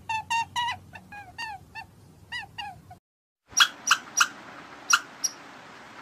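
A rabbit squeaking: short high squeaks in quick succession, each dropping in pitch, for about three seconds. After a brief gap, a squirrel gives a few sharp chirps.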